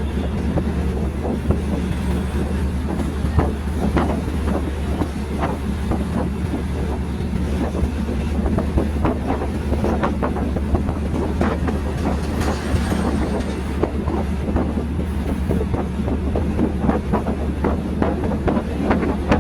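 Train running on the rails, heard from on board: a steady low rumble with many irregular clicks and knocks from the wheels and carriage.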